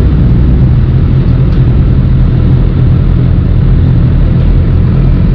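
Sportbike engine running steadily, a loud, even low sound with no revving.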